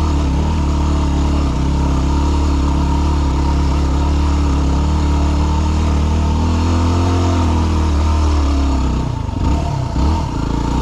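Yamaha WR250R dual-sport motorcycle's single-cylinder engine running at a steady note, then rising and falling in pitch a few times near the end as the throttle is opened and closed.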